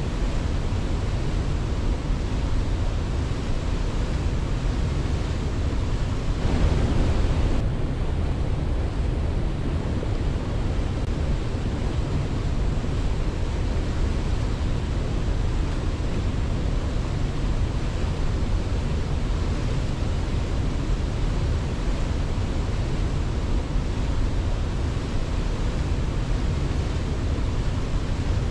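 Waterfall: a steady rush of water, heaviest in the low end, swelling briefly about seven seconds in.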